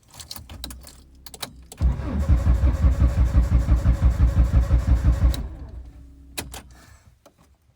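A few clicks, then the starter motor of a 36-year-old French car cranks the engine in even pulses, about six a second, for about three and a half seconds and stops without the engine catching: it turns over but does not start.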